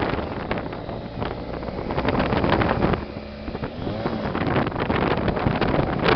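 Motorcycle engine running on the move, under heavy wind buffeting on the microphone. The wind noise eases briefly about three seconds in, letting the engine's changing pitch through.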